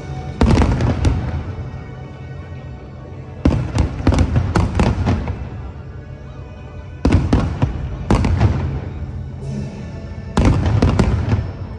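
Aerial fireworks shells bursting in four volleys about three and a half seconds apart, each a quick cluster of sharp bangs lasting about a second.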